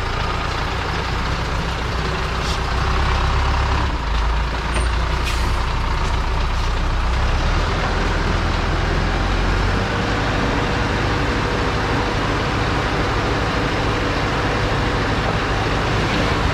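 THACO dump truck's diesel engine running under load, a loud low rumble that shifts in pitch about four and ten seconds in.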